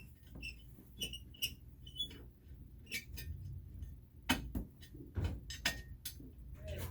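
Irregular clicks, knocks and brief squeaks of small hard objects being handled, over a steady low hum.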